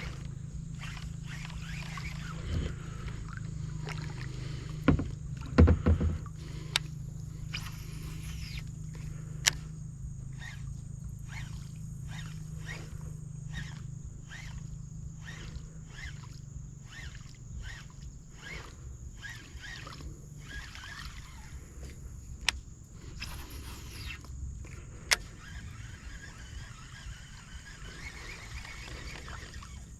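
Sounds of fishing from a kayak on calm water: a regular swishing about twice a second through the middle stretch, a few sharp clicks and knocks (the loudest about five to six seconds in), over a steady high whine and a low rumble.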